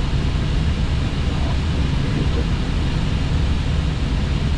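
Steady cockpit noise of an Airbus A320 on approach: an even rush of air over a deep, constant low rumble.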